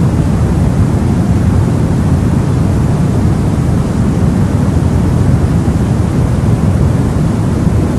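Steady, unchanging sleep-aid white noise, heavier and deeper in the low end than in the treble.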